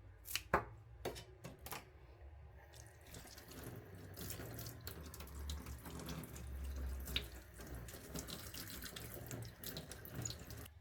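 A few sharp clicks and knocks, then a kitchen tap running into a sink with water splashing.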